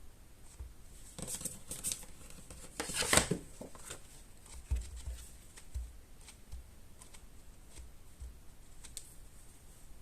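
Paper-crafting sounds at a work table: a few short rustles and snips of card, the loudest about three seconds in, followed by several soft knocks on the table.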